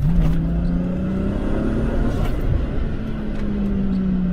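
Turbocharged VR6 engine in a Golf 2, heard from inside the cabin as the car accelerates: after a brief dip at the start, the engine's pitch rises steadily for about three seconds, then slowly falls.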